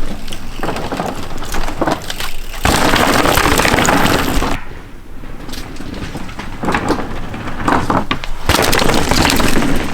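Mountain bike crunching and rattling over rocky ground, with scattered clicks and two louder rough stretches, about three seconds in and again near the end.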